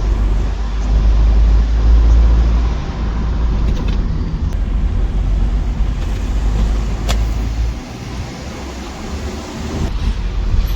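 Steady low rumble of a road vehicle on the move, easing off about eight seconds in, with a single short click partway through.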